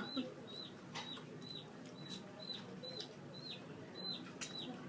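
Baby chicks peeping: a steady run of short, high peeps, each falling in pitch, about two a second. A few short clicks sound alongside.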